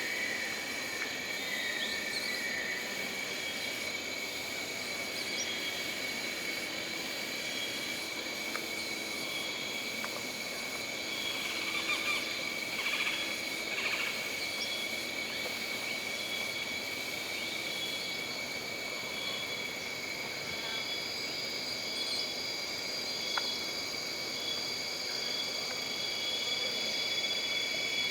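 Jungle ambience: a steady chorus of insects buzzing at several high pitches, one of them pulsing in short trills about once a second, with occasional short chirps.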